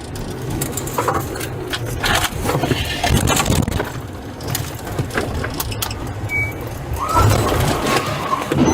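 Police vehicle's engine and road rumble as it creeps forward at low speed, with scattered knocks and rattles.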